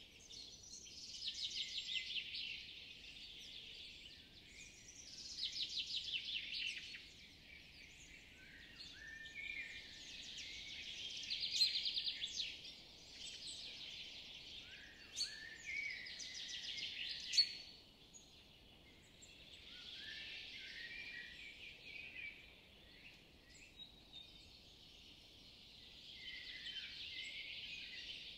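Woodland songbirds singing: fast trills a second or two long recur several times, mixed with shorter chirps and brief falling notes, over a steady faint background hiss.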